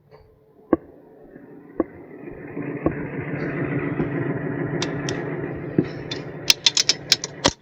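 Wheel dollies being jacked up under a truck's wheels: a few single sharp clicks, then steady mechanical creaking and grinding, and a quick run of sharp metal clicks near the end.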